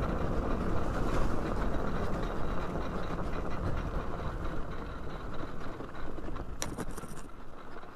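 Wind rush and dirt-bike tyres rolling over the trail as a Yamaha YZ450F coasts with its engine dead, out of fuel. The rush eases toward the end, with a few short rattles near the end.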